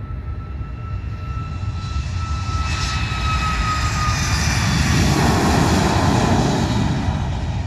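Aircraft passing close by: several high engine whine tones drift slowly down in pitch over a steady rumble that grows louder to a peak past the middle, then eases near the end.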